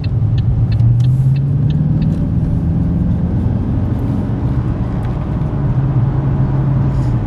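Car engine running under way with road rumble, heard from inside the car. The engine note edges up a little a couple of seconds in and then holds steady. A row of light ticks sounds in the first second or so.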